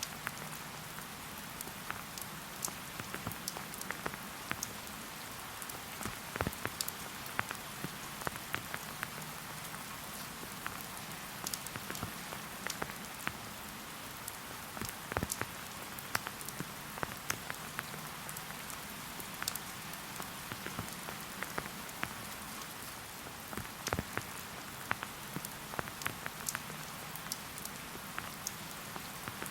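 Steady rain: a constant hiss, with many individual drops ticking sharply close by at irregular intervals.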